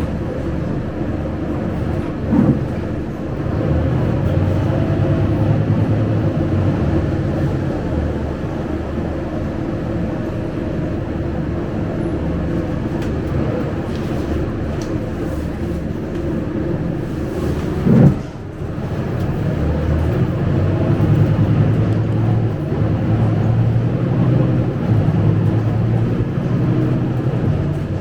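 Interior of a Scania K250UB single-decker bus under way: its rear-mounted diesel engine is running, with road and body rumble. There is a knock a couple of seconds in and a louder one a little past the middle, followed by a brief drop in level.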